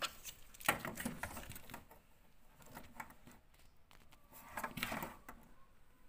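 Irregular clicks, taps and light rattles, as of parts and tools being handled, with a busy cluster about a second in and another near the five-second mark.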